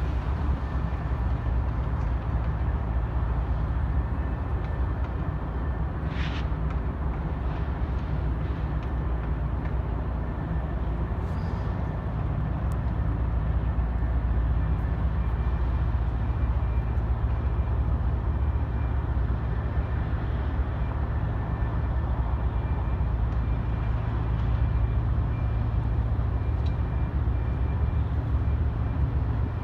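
Steady low engine rumble of a vehicle running continuously, with a brief higher hiss about six seconds in.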